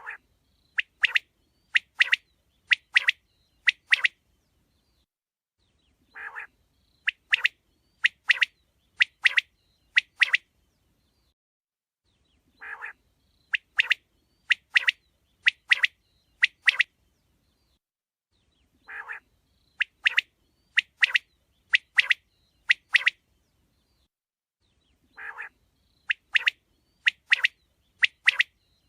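Quail calling. A soft, low note is followed by a run of sharp, high calls in quick pairs. The whole phrase repeats about every six seconds, with silence between phrases.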